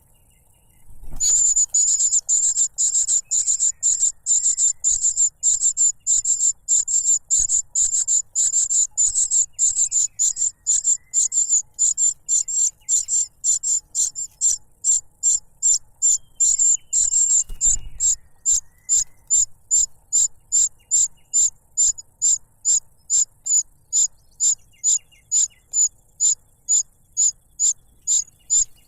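Cuckoo chick begging for food: a long series of very high-pitched, piercing calls. They come almost without pause at first, then slow to about two a second.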